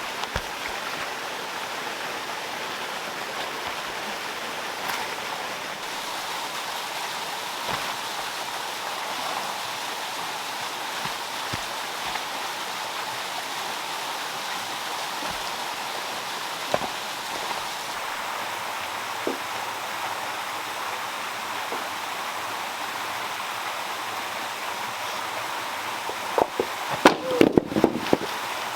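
Water pouring steadily down a small stone waterfall, with a few scattered clicks and a short cluster of knocks near the end.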